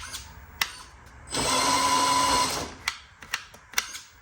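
Small electric motor and gears of a 1/14-scale RC dump truck whirring for about a second and a half. A sharp click comes before the whir and several short clicks follow it, fitting the truck's gearbox being shifted.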